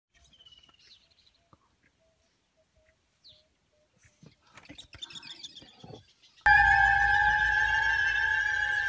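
Faint bird chirps and a few small ticks and rustles. About six and a half seconds in, a loud, steady high-pitched squealing tone with a wavering lower note starts suddenly and carries on.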